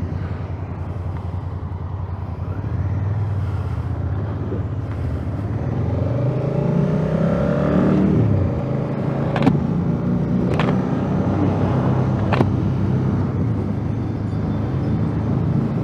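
Honda Africa Twin's parallel-twin engine running as the motorcycle rides off: it hums steadily, then revs up rising in pitch for a couple of seconds before dropping at a gear change. A few sharp clicks follow.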